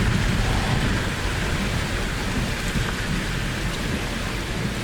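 Steady rushing noise of storm wind and rain around a car, with a heavy low rumble.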